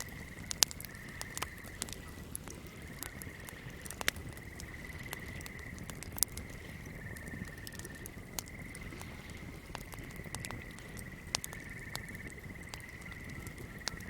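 Crackling flame giving off irregular sharp pops and snaps, over a steady high-pitched trilling chorus of swamp creatures that shifts slightly in pitch every second or two.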